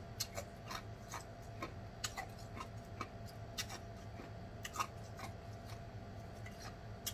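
Close-miked chewing of a cooked oyster: irregular wet mouth clicks and smacks, two or three a second, over a faint steady hum.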